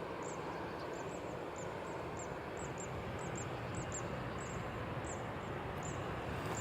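Steady rush of a jet airliner's engines, with short high chirps repeating over it a few times a second.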